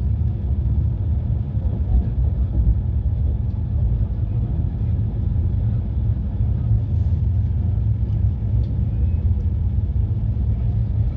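Passenger train in motion: a steady low rumble that runs on without a break.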